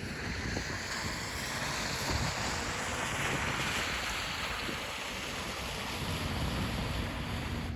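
Wind rushing steadily, with gusty low rumbling where it buffets the microphone.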